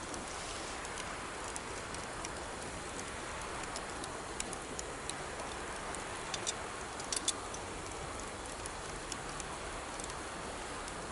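Campfire crackling with scattered sharp pops, several close together around the middle, over the steady rush of a river.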